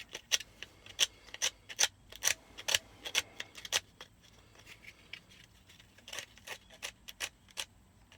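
Short, sharp scratching strokes of sandpaper rubbing the metal contacts of a car's dome light housing, cleaning off corrosion and an oily film. They come about two a second at first, then grow fewer and fainter.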